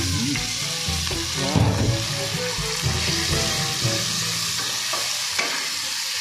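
Octopus sizzling in a frying pan of hot margarine with garlic, ginger and onion, a wooden spatula stirring it through: a steady frying hiss with the stir of the spatula in the pan.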